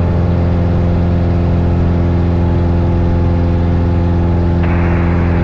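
Cessna 172 Skyhawk's four-cylinder Lycoming engine and propeller droning steadily at a constant pitch, heard inside the cabin. A hiss cuts in suddenly near the end and stays.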